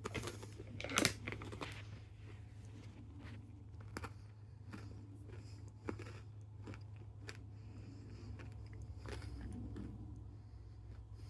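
Crunching and chewing of yogurt-covered pretzels, with many short crisp crunches and the loudest bite about a second in.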